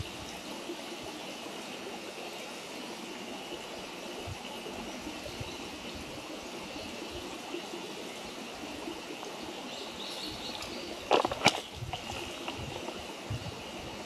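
Wood campfire burning: a steady rushing hiss with scattered soft knocks, and a couple of sharp snaps about eleven seconds in.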